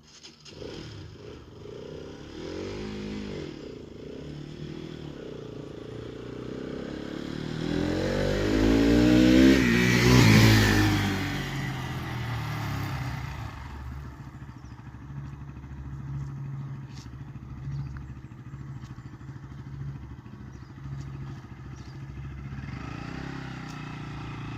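Bajaj Pulsar NS200 single-cylinder motorcycle engine revving, climbing to its loudest about ten seconds in and falling away, then running steadily at a low pitch.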